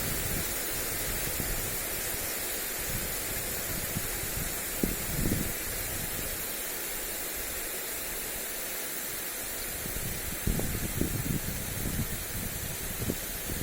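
Lawn sprinkler spraying water onto grass in a steady hiss. Gusts of wind rumble on the microphone about five seconds in and again over the last few seconds.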